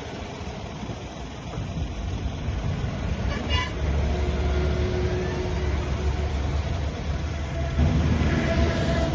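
Heavy diesel earthmoving machinery running with a steady low rumble that grows louder about four seconds in. A brief high-pitched toot sounds about three and a half seconds in.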